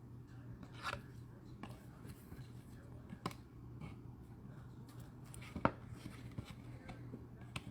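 Baseball trading cards and their packaging being handled: faint scattered clicks and rustles, the sharpest a little past halfway, over a steady low hum.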